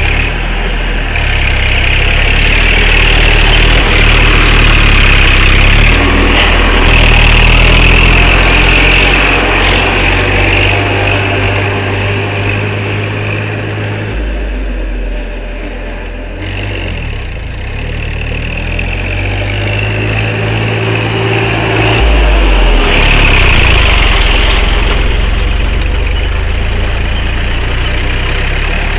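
Tractor engine running hard, its speed and loudness rising and falling, dropping off about halfway through and picking up again later.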